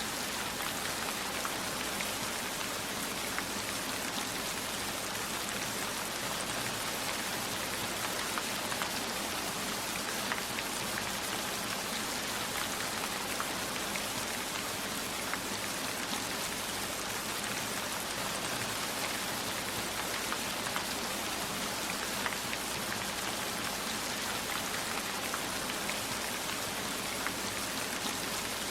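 Steady heavy rain falling, an even hiss with many small scattered drop ticks.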